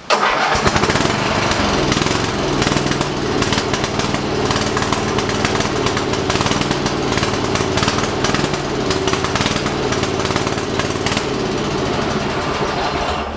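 Ride-on lawnmower's 12 horsepower petrol engine running steadily at a fairly constant speed, running well now that its oil leak and carburettor vacuum leak are fixed. It starts and stops abruptly.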